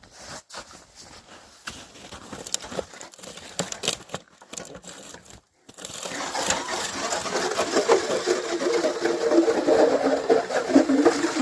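A few seconds of light scraping and knocks, then, about halfway through, a Strikemaster 8-inch electric ice auger starts and runs steadily, drilling through the ice.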